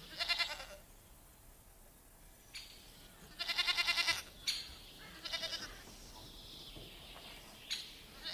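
Goat bleating four times, each bleat a quavering, fast-wavering call; the one in the middle is the longest and loudest.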